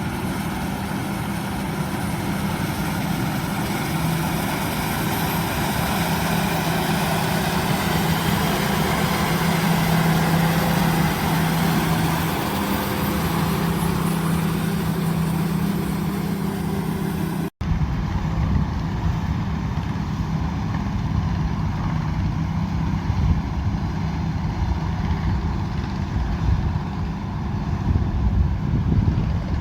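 Combine harvester's diesel engine running steadily under load, with a strong low hum. About two-thirds of the way through it cuts abruptly to another stretch of the same kind of engine noise, duller and with less hiss.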